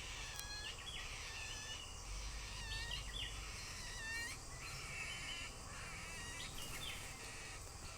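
Small birds chirping over and over: high, thin calls, some broken into quick stepped notes, one after another throughout.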